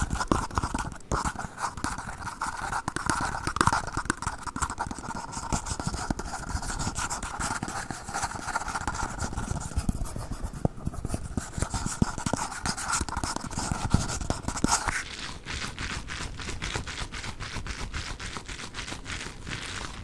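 Red plastic cups scraped, scratched and tapped in close-up, a dense run of quick scratchy clicks with a steady ringing edge from the plastic. About three-quarters of the way in it changes abruptly to a crisper, finer clicking as orbeez water beads are handled.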